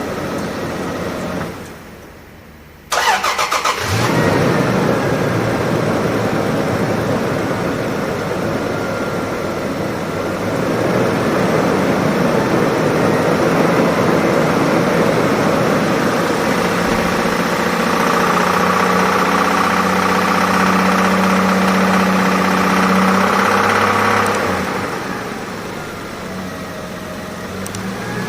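Toyota 1GR-FE 4.0 L V6 engine running, dying away after a second or so, then cranked by the starter and catching almost at once, about three seconds in. It runs on, is held at higher revs from about ten seconds in, and drops back to idle near the end.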